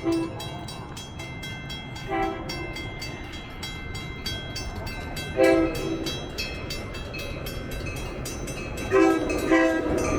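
Metra train's horn sounding a series of short blasts, two of them doubled, as the train approaches, over the low rumble of the train and a bell ringing rapidly and steadily.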